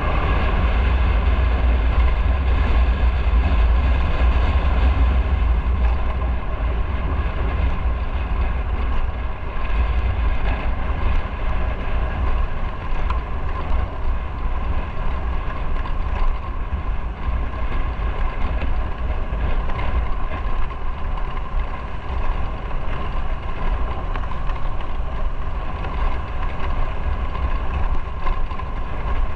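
Motorcycle engine running steadily while riding, with a deep low rumble and some wind noise on the microphone.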